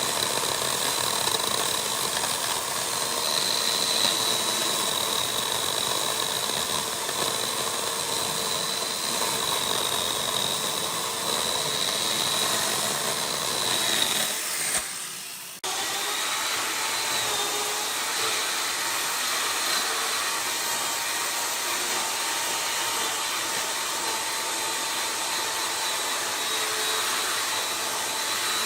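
Chainsaw running steadily. About halfway it fades and breaks off for about a second, then starts again at a different pitch.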